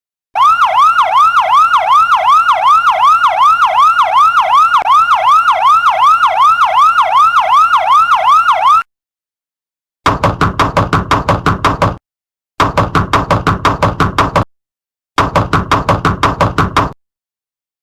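Electronic siren sound effect: a fast, rising whoop repeated about three times a second for some eight seconds, then stopping abruptly. After a pause come three short bursts of rapid electronic alarm pulsing, each about two seconds long.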